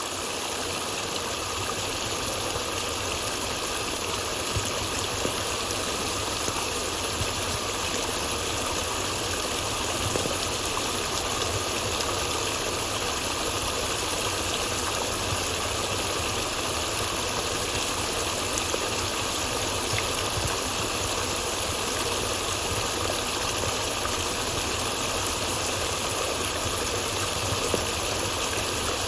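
Flowing stream water rushing steadily, a continuous even wash of sound without any break or change.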